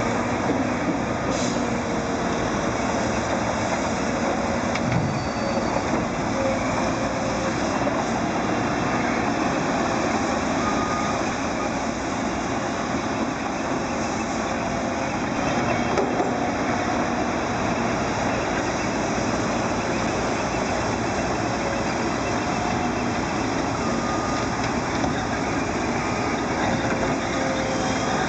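Heavy diesel dump trucks and earthmoving equipment running steadily, a continuous engine drone without pauses.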